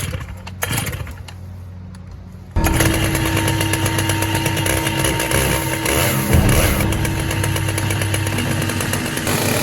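Chainsaw mill running at full throttle, cutting into an ash log; it comes in suddenly about two and a half seconds in, after a few knocks over a low steady hum.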